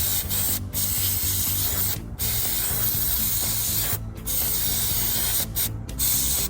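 Aerosol cleaner hissing in several long spray bursts with brief breaks between them, blasting carbon deposits off an EGR valve.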